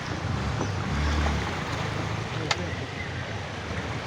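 Vehicle engine running low and steady while water sloshes and splashes around it, as it moves through floodwater. A single sharp click about two and a half seconds in.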